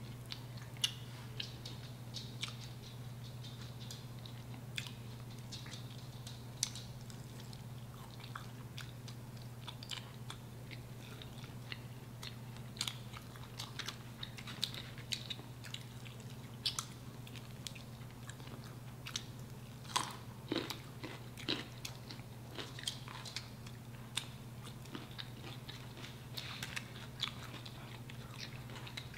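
Chewing and biting on chicken wings: irregular small wet clicks and crunches of mouths eating, over a steady low hum.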